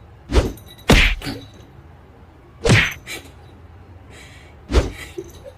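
Four sharp whacks at uneven intervals, some followed by a softer knock.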